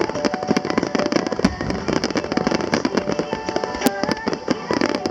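Fireworks display with dense, rapid crackling and popping from bursting shells, and music from loudspeakers faint underneath.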